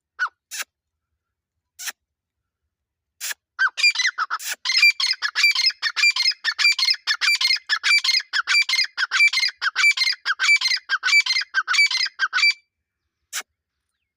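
Teetar (francolin) calling: a few sharp single notes, then a fast, even run of repeated call notes, about four to five a second, that goes on for about nine seconds and stops abruptly, followed by one last sharp note.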